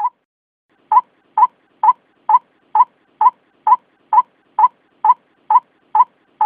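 White-breasted waterhen calling: a single short, sharp note, a pause of about a second, then an even series of the same note repeated about twice a second.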